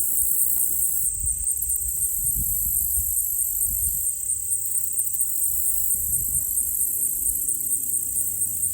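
Chorus of insects, crickets or katydids, giving a steady high-pitched trilling with a fast, even pulse, over a faint low rumble.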